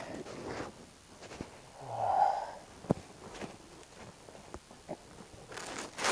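Handling noise from dismantling work: a short breathy vocal sound about two seconds in, a sharp click and a few small knocks after it, and a burst of rustling near the end.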